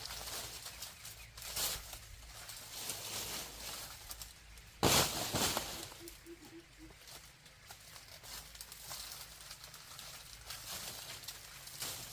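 Scattered clicks and rustling handling noises, with one loud sharp knock about five seconds in that rings on briefly, followed by five short low notes in quick succession.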